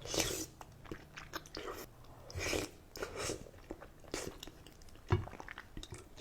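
Close-up mouth sounds of a person chewing cheesy buldak ramen noodles: irregular wet smacks and chews, with a sharp click about five seconds in.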